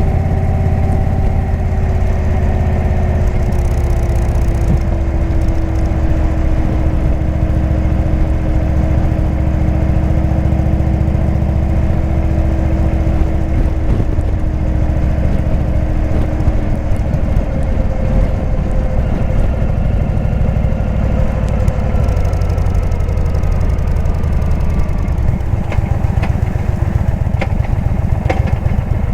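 Indian V-twin motorcycle with a Jekill & Hyde exhaust running steadily while being ridden, its pitch drifting only slightly.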